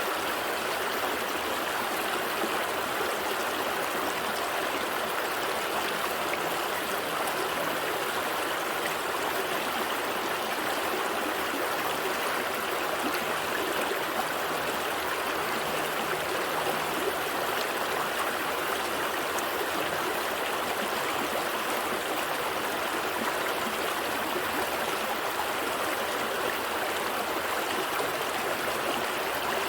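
Gentle stream flowing steadily, a constant rush of water over rocks with light trickling and gurgling.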